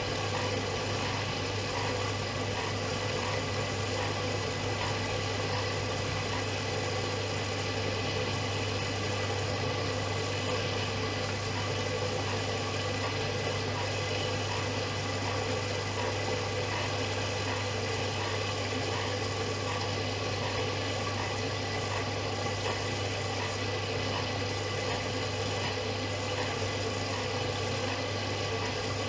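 Privileg Dynamic 7420 washing machine running: a steady, even hum with a low drone and several fixed tones above it.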